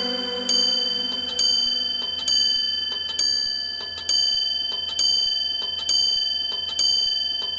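Clock chime striking the hour, eight ringing strikes a little under a second apart, each fading before the next, as in a clock striking nine.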